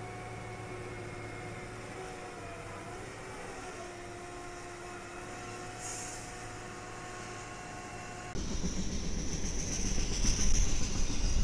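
A rail snow-clearing machine running on the track with a steady whine, its pitch dipping briefly about three seconds in. About eight seconds in, a double-stack container freight train takes over, much louder: a rumble of wheels on rail with a high hiss over it.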